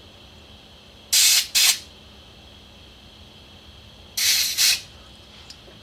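Compressed air blown through a small carburetor idle jet: two pairs of short, sharp hissing blasts, one pair about a second in and another about four seconds in, clearing the jet's passage from both ends.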